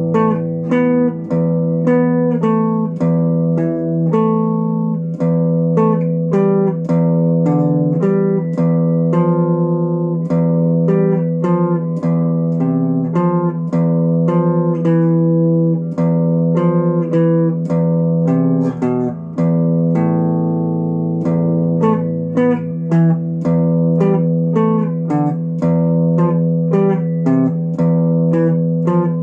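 Instrumental guitar music: a plucked guitar playing a steady run of picked melody notes over held bass notes.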